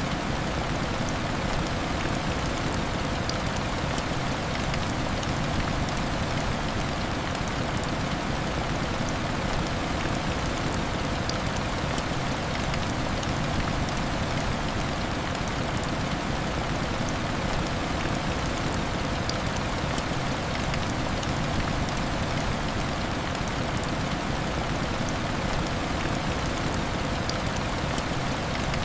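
Heavy rain falling steadily, a dense even hiss sprinkled with many small ticks of drops striking a surface.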